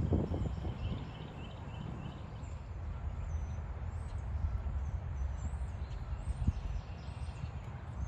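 Wind rumbling on the microphone, with faint high chirps of small birds.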